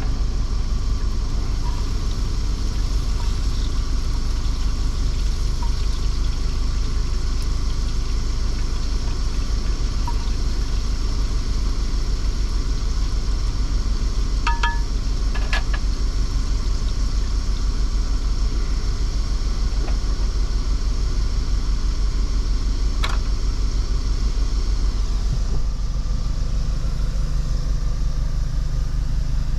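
Truck engine idling steadily, heard from inside the cab, with a few light clicks partway through.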